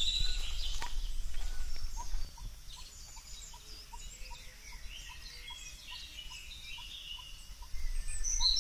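Birds chirping and twittering, with one bird repeating a short note about two to three times a second, over a low rumble that is louder for the first two seconds and again near the end.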